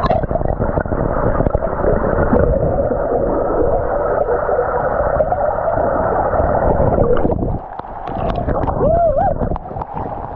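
Heavy rain pouring down, a dense steady rush full of small patters, which dips briefly a little before eight seconds in. A short rising-and-falling whoop-like tone sounds about nine seconds in.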